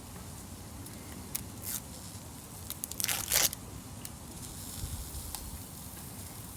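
A brief tearing or crinkling sound, like packaging being ripped, about three seconds in, with a few faint clicks before it.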